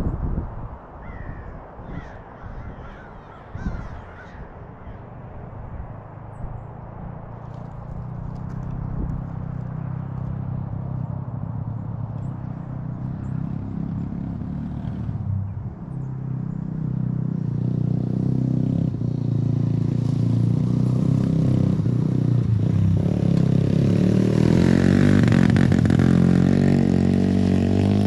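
Scattered knocks and clatter, then the Yamaha TT-R90 dirt bike's small single-cylinder four-stroke engine running from about seven seconds in. It gets steadily louder and is revved up and down over the last several seconds.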